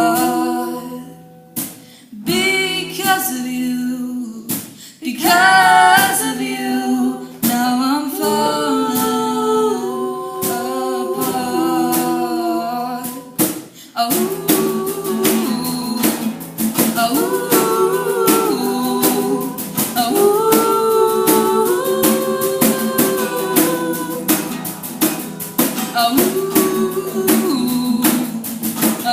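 Girls singing a wordless, melismatic vocal line. About halfway through, a steady beat of sharp clicks joins the voices.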